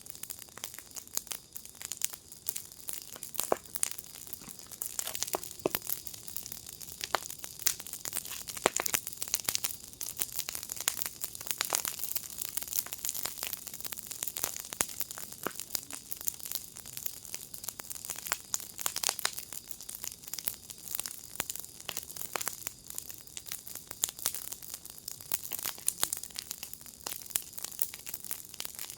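Fire pit burning with steady, irregular crackling: many small sharp pops over a soft hiss, with a few louder snaps scattered through.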